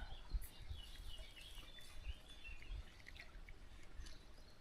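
Faint birds chirping and calling, scattered short notes over a low rumble.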